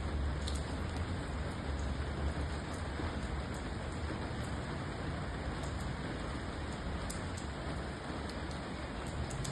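Steady rain falling, with scattered sharp drop ticks over an even hiss. A deep low rumble is strongest in the first few seconds and then eases off.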